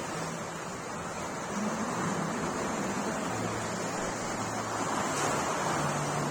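Sea waves washing and surging, growing a little louder about one and a half seconds in, with a faint low steady hum underneath.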